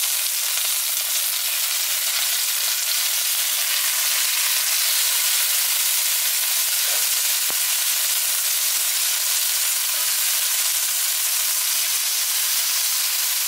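Chicken breasts frying in oil in an enamelled pan: a steady sizzle.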